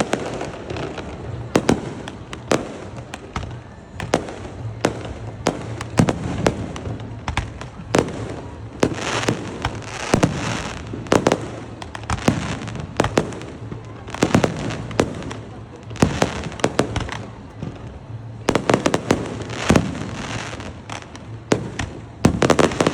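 Aerial fireworks bursting in a steady, irregular series of booms and pops, with tighter clusters of bursts near the end.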